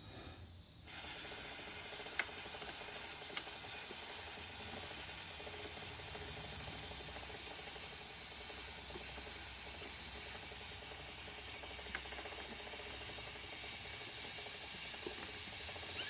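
Aerosol can of clear chain wax spraying onto a dirt bike's drive chain, a long steady hiss that starts about a second in.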